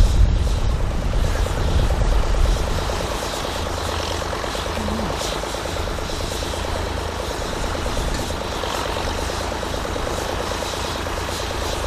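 Ford 4000 tractor engine running steadily under load while pulling a cultivator, with a fast, even engine beat over a low rumble.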